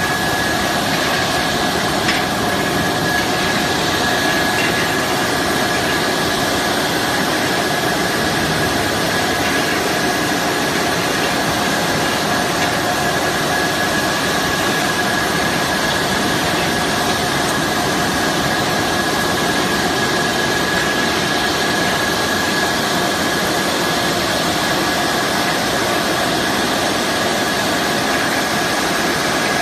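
Brush-roller washing machine running steadily, a constant loud machine noise with a steady whine held through it.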